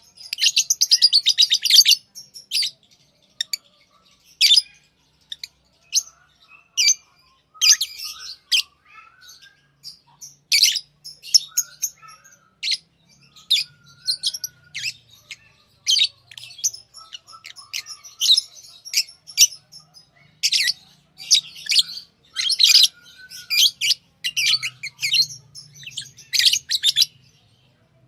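Pet lovebirds chirping: sharp, high-pitched chirps and short calls, a rapid run of them in the first two seconds, then scattered calls and clusters of chirps.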